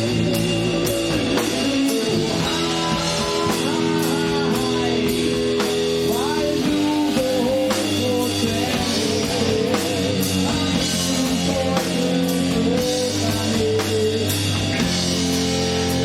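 Rock band playing live: electric guitar and drum kit in an instrumental passage, with a guitar line bending up and down in pitch partway through.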